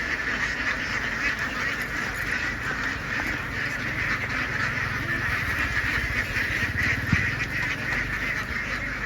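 A large flock of domestic ducks quacking all at once in a dense, continuous chorus, with a low rumble underneath.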